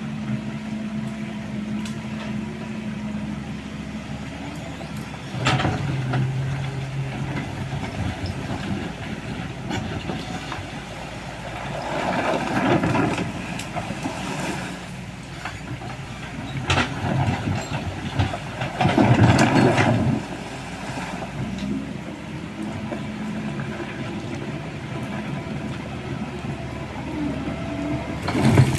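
Excavator's diesel engine running steadily, its note dropping about five seconds in, with two louder, noisier stretches near the middle as the machine works.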